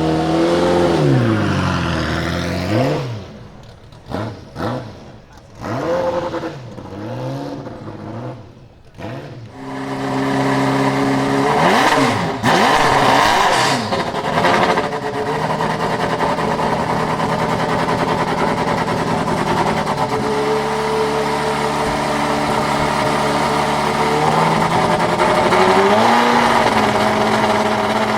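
Ferrari F40 LM's twin-turbo 2.9-litre V8 (Tipo F120 B) through its raw exhaust, revved repeatedly with rising and falling throttle blips. It then settles into a steady note and rises once more near the end.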